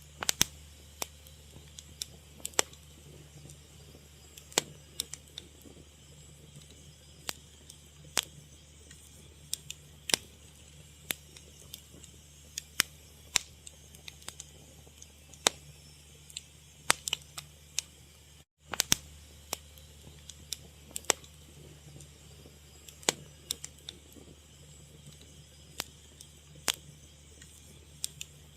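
Fire crackling: irregular sharp pops and snaps, several a second at times, over a steady low hum. The sound drops out for a split second about two-thirds of the way through.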